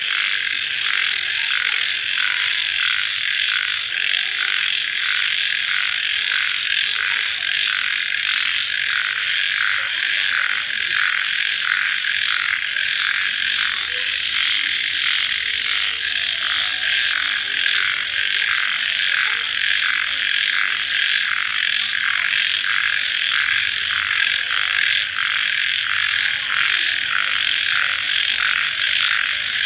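Dense chorus of crickets calling at night, a continuous shrill trilling that pulses in an even rhythm about twice a second.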